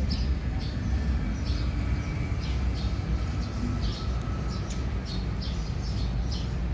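Small birds chirping repeatedly, short high chirps two or three times a second, over a steady low rumble.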